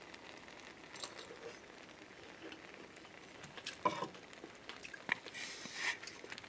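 Faint chewing of a bite of cooked ground turkey during a taste test, with light clicks of a metal spoon in the pan, the clearest about four seconds in.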